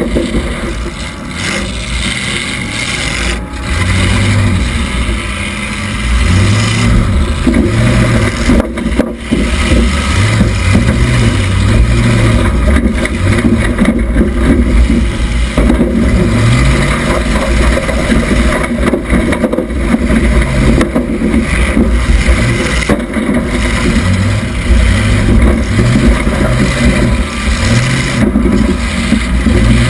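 1976 Oldsmobile Cutlass Supreme's engine running loud and revving up and down over and over as the derby car drives.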